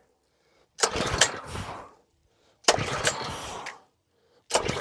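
Briggs & Stratton engine on a pressure washer being cranked by its recoil pull-cord three times, each pull about a second long with a short pause between, without the engine catching.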